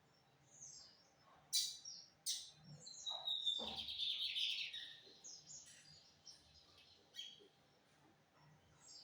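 Lined seedeater (bigodinho) singing: a few sharp chirps, then a denser, buzzy song phrase about three to five seconds in.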